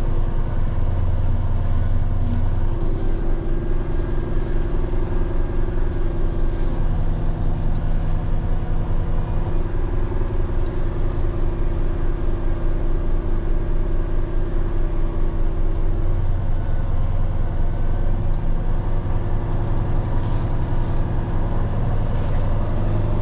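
Diesel engine of a Peterbilt 389X rotator wrecker running steadily at low road speed. Its drone shifts slightly in pitch about three seconds in and again about sixteen seconds in.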